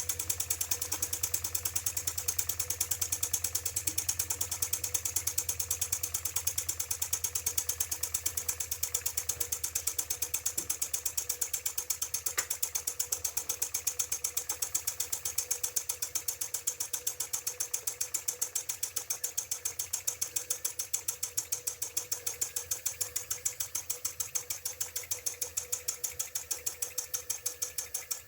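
IND-X electrically heated toy steam engine running on steam with its heater unplugged, a fast, even clatter of exhaust beats and moving parts that goes on steadily while the boiler's remaining pressure lasts.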